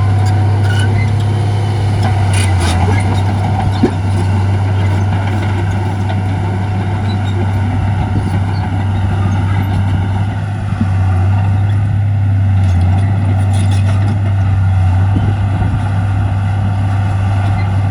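Heavy diesel construction machinery running steadily with a deep, unbroken engine drone, with a few faint metallic clanks and one sharp click about four seconds in.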